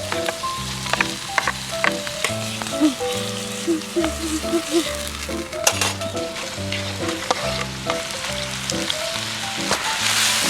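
Food sizzling as it fries in a pan, with sharp clicks of a utensil as it is stirred, over background music; the sizzle grows louder near the end.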